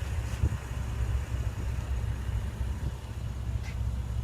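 Porsche Cayenne S engine idling, a steady low rumble heard from inside the cabin, with a faint click near the end.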